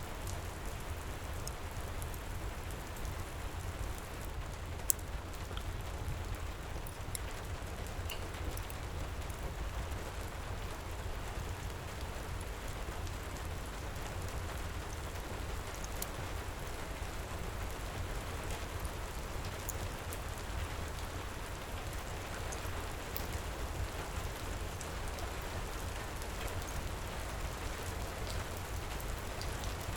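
Heavy rain pouring steadily with a deep low rumble underneath, mixed with the scattered sharp pops and crackles of a wood fire in a stone fireplace, one louder pop about five seconds in.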